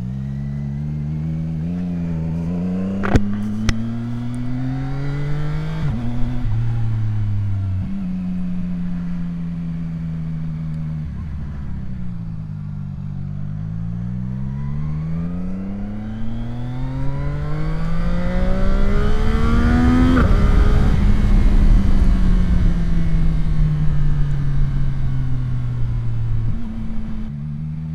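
CFMOTO 675SR-R's three-cylinder engine on its stock exhaust, pulling away and accelerating through the gears. The pitch climbs and drops back at each shift, eases off, then revs up again to a peak about twenty seconds in and winds down as the bike slows. Wind rushes over the microphone at the higher speed.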